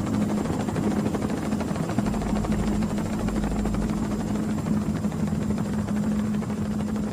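Helicopter rotor and engine running steadily: a constant hum with a fast, even rotor chop.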